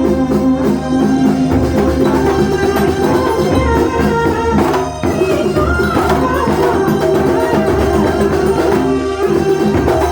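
Live kuntulan music from Banyuwangi: a traditional percussion ensemble of frame drums and drums playing a steady beat under a melodic line.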